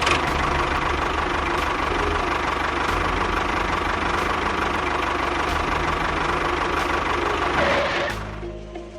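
Small engine running steadily with a fast low chugging, which cuts off suddenly about eight seconds in.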